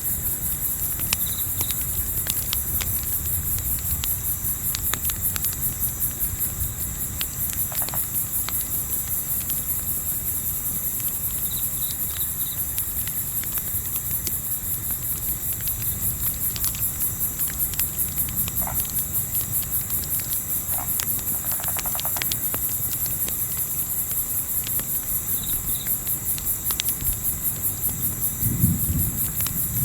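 Crickets chirping in a steady, fast-pulsing high trill over the crackle of a campfire, with sharp pops scattered throughout and a low rumble underneath. A low thump sounds near the end.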